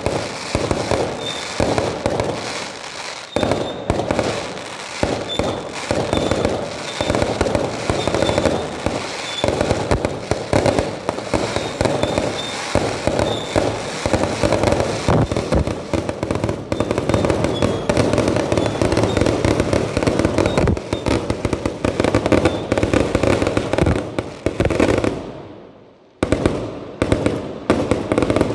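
Fireworks going off in a rapid, continuous barrage of bangs and crackles, with a brief lull near the end before the bangs resume.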